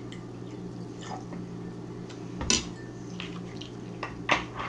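Tableware clinking and knocking during a meal: a few scattered short taps, the loudest about halfway through and near the end, over a steady low hum.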